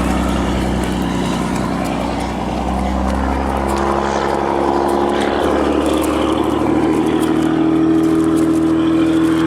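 A motor vehicle's engine running steadily while it drives. A higher, steady engine tone joins about four seconds in.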